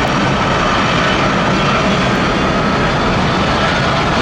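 Jet engines of a Boeing 737-700 airliner, their CFM56 turbofans running loud and steady with a faint high whine.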